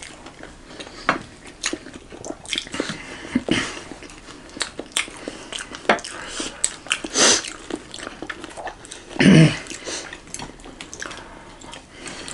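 Close-miked bites and chewing of fried momo and shyabhale, with scattered clicks of chopsticks and a spoon on plates and the sauce bowl. A brief louder, lower sound comes about nine seconds in.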